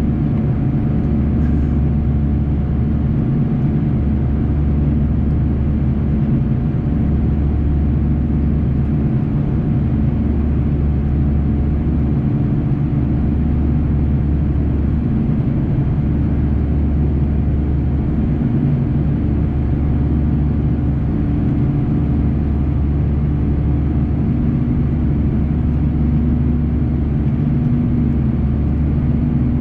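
Cabin sound of an Airbus A340-300's four CFM56 turbofans running at high power during takeoff and initial climb: a steady rumble with a low, even hum of several engine tones.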